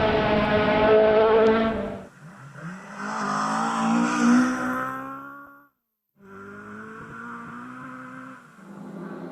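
Rally car engines at high revs on a forest stage: a loud car passes close and fades about two seconds in, a second rises in pitch and cuts off abruptly near the middle, then a more distant car runs steadily.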